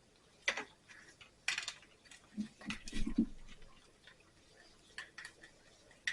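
Small clicks and taps of lawn mower carburetor parts and screws being handled and fitted together, a scattering of separate light knocks with short pauses between.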